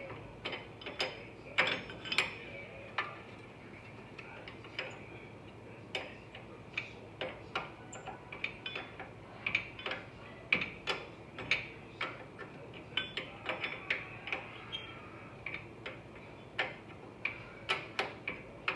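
Irregular metallic clicks and clinks, a few a second with short pauses: a wrench being repositioned and turned on the bolts holding a truck's front wheel hub, in a job slow enough that a ratchet would be faster but cannot fit.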